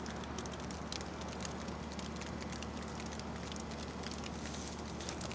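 Steady, fairly quiet outdoor background noise with a low hum, dotted with faint, scattered ticks and patters.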